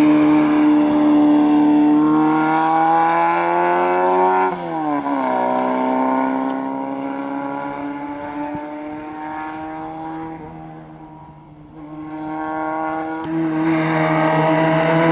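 A rally car's engine at high revs, accelerating hard past the roadside. About four and a half seconds in, the pitch drops sharply and then glides down as the sound fades into the distance. Near the end another rally engine at high revs starts suddenly and loudly.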